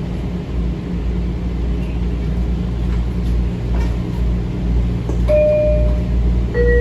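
Steady low electrical hum of a stationary Metro-North M7 railcar. About five seconds in comes the car's two-note descending door chime, a higher tone then a lower one, warning that the doors are about to close.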